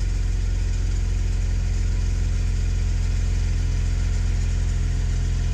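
BMW 335i's N54 twin-turbo straight-six idling steadily, its new exhaust gaskets fitted and not leaking.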